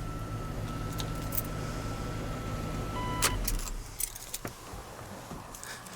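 The truck's 454 V8 idles steadily, then shuts off with a clunk about three seconds in. After that, keys jangle and click as they come out of the ignition.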